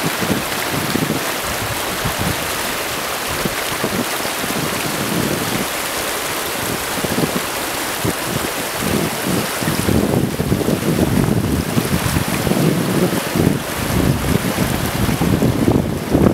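Wind buffeting the microphone in irregular gusts over a steady rushing hiss, the gusts growing stronger about ten seconds in.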